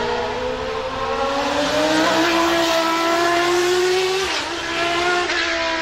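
Historic Formula One race car engine running at high revs, its pitch climbing steadily under acceleration, with a brief dip about four seconds in at a gearshift.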